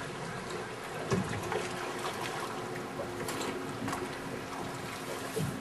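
Water washing and trickling along a yacht's hull, with wind, a faint steady hum and scattered small knocks and clicks.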